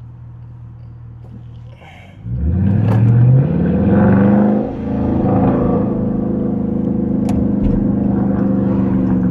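HEMI V8 exhaust of an R/T, loud with the catalytic converters still in, heard from inside the car. It idles steadily, then about two seconds in it opens up into a hard acceleration with rising pitch. There is a brief dip just before five seconds, as at a gear change, and then it pulls on steadily at high revs.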